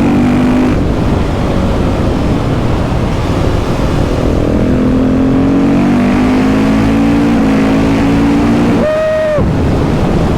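KTM 690 SMC R single-cylinder engine running under way through a Leo Vince exhaust, with wind noise on the microphone. Its revs climb gradually through the second half, then there is a brief break about nine seconds in.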